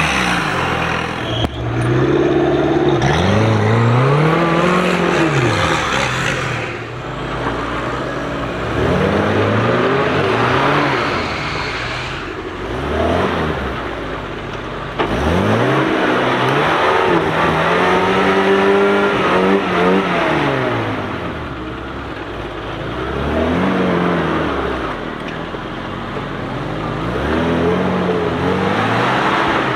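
Small Suzuki SJ-series off-roaders' engines revved hard again and again, the pitch rising and falling every few seconds, as they claw up a muddy rut.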